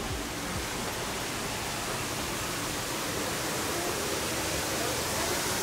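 Steady, unbroken rush of the Upper Düden waterfall, heard from close by in the cave behind the falls.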